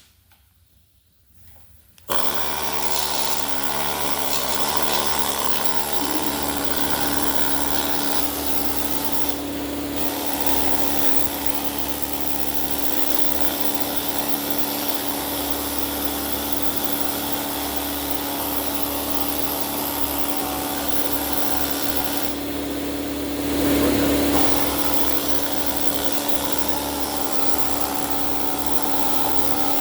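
Pneumatic needle scaler running continuously on a cast engine, hammering the rust off, with a brief louder stretch partway through.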